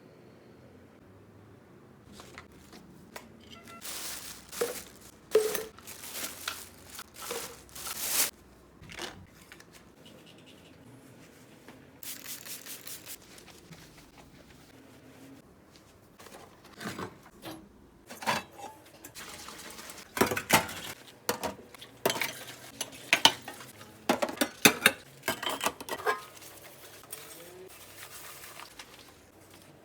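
Dishes and cutlery clinking and clattering in scattered clusters of short knocks as a kitchen is tidied, with brief pauses between.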